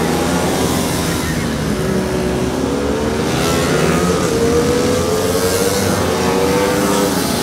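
Single-cylinder four-stroke supermoto race bikes, a Sherco 300 SEF and a Husqvarna FS 450, running at race pace through the corners. The engine note climbs several times as they accelerate.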